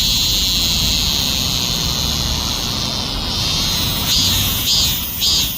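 A cicada singing loudly: a long, steady, high-pitched buzz for about three seconds, then breaking into short pulsed calls about twice a second.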